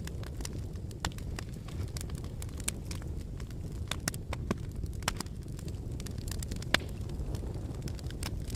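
Irregular sharp cracks and clicks of a volcanic lava flow, over a steady low rumble.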